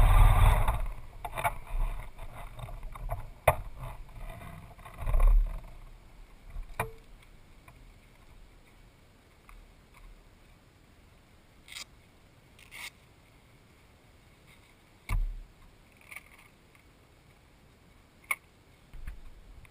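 A motorcycle engine running, which cuts off under a second in. Then scattered clicks and knocks, with a few dull thumps.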